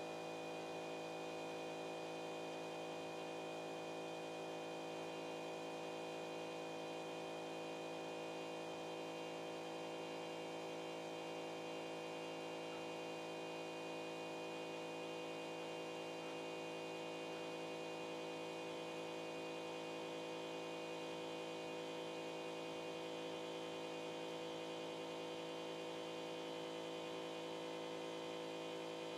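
Steady electrical hum and whine from a CNC pen-plotter drawing machine, several tones held unchanged throughout.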